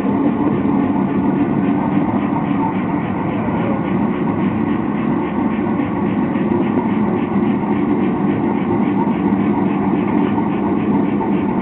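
Venturi-type gas forge burner running with a loud, steady, even rush of air and flame.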